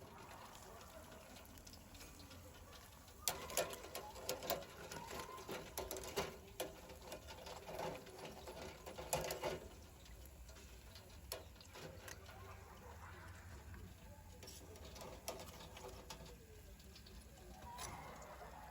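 Faint irregular taps, pats and light knocks of raw chicken pieces being dredged in flour and buttermilk and shaken off. They come thickest in the first half, over a low steady room hum.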